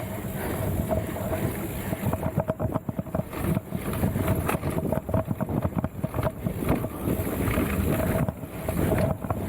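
Wind buffeting the microphone of a mountain bike ride, with the bike rattling and knocking over rough trail: a dense run of sharp clicks and knocks in the middle, under a steady low rumble.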